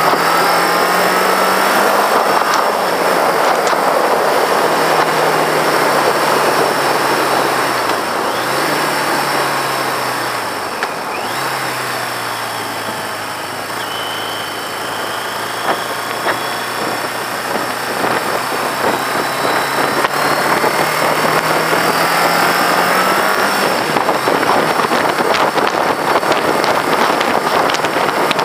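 Engine of a 1982 Yamaha XJ650 air-cooled inline-four running on the move. The engine note climbs slowly and drops suddenly several times with the gear changes, under steady wind rush on the microphone.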